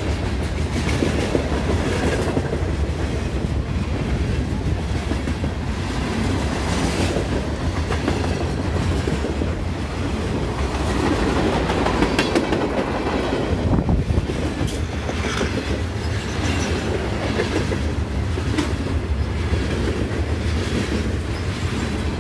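Freight train cars rolling past: a steady rumble of steel wheels on rail, with scattered clicks and knocks as the wheels cross rail joints.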